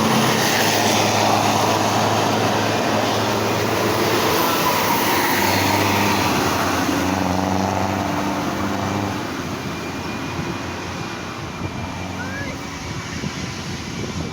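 A heavy vehicle's engine labouring up a steep climb, a steady low drone with road noise. It fades somewhat after about nine seconds as the vehicle moves on.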